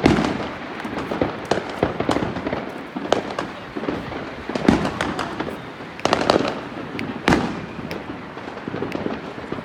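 Fireworks and firecrackers going off: an unbroken run of sharp pops and bangs at irregular intervals, with a loud bang at the start and several more through the middle.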